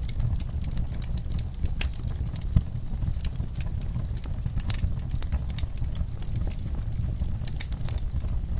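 Wood fire crackling in a fireplace: irregular sharp pops and snaps over a steady low rumble of the flames, with one sharper pop about two and a half seconds in.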